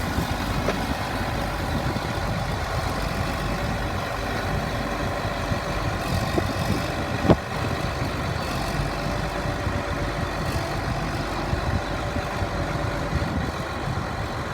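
Case IH Magnum 305 tractor's diesel engine running steadily, with a single sharp click about seven seconds in.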